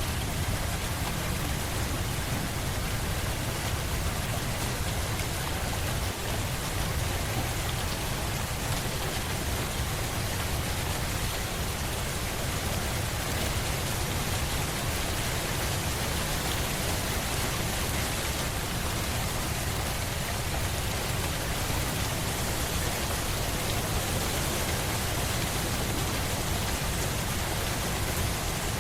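Steady rain: an even, unbroken hiss of falling rain with a deep rumble underneath and no separate drops or thunder standing out.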